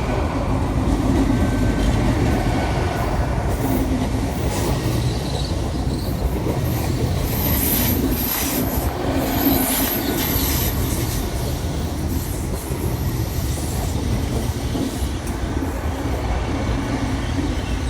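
Great Western Railway Class 800 IET train running alongside the platform, a steady rumble of wheels on rail. A high-pitched squeal of wheels comes and goes from about the middle.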